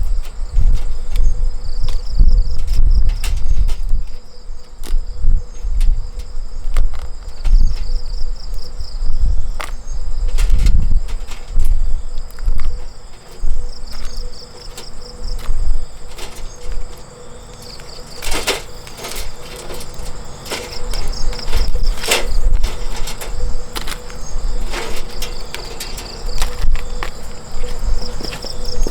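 Insects chirping in short repeated trills over a steady high buzz, with uneven low rumbling and a few sharp knocks about two-thirds of the way through.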